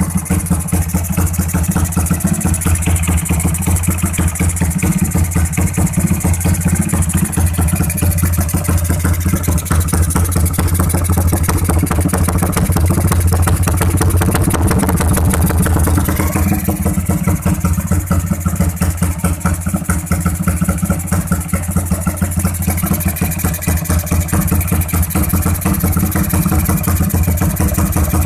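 Motorcycle engine running through an aftermarket RJM Progressive muffler, idling steadily with a rapid, even exhaust pulse.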